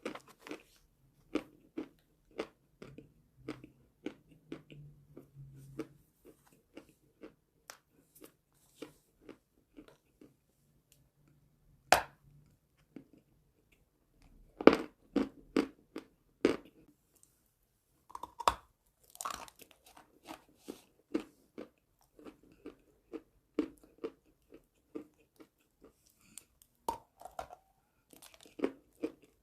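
Chalk being bitten and chewed close to the microphone: irregular crisp crunches, with a few louder sharp bites scattered through.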